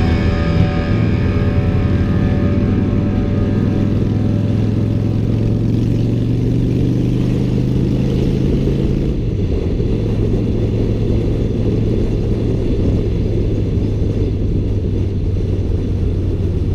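Honda Shadow VT750 V-twin engine running steadily under way, its note dropping to a lower pitch about nine seconds in, with wind rush on the camera.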